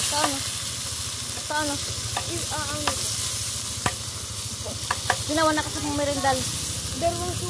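Chicken sizzling and frying in a wok over a wood fire, a steady hiss, as more pieces are tipped into the hot pan. A couple of sharp clacks come about four and five seconds in.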